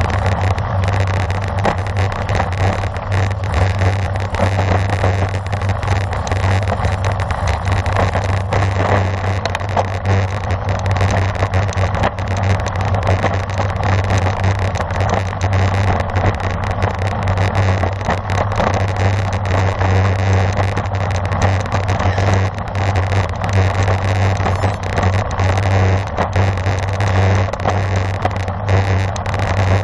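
Steady wind and road noise on a camera riding along on a racing bicycle at speed, a constant low rumble under an even rushing hiss.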